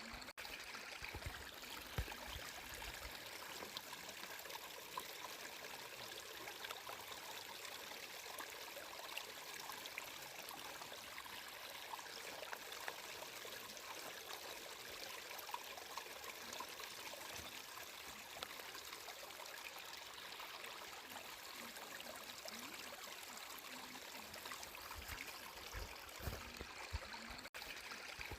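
Stream water flowing steadily with an even rushing hiss, with a few low gurgles near the start and again near the end.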